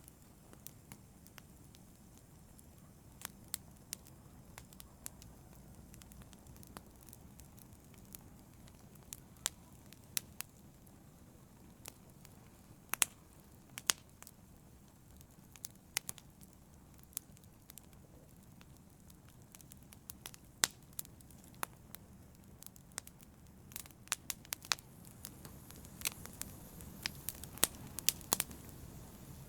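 Wood fire crackling and popping in a fireplace: scattered sharp pops over a low, steady rumble of burning, the pops coming more often near the end.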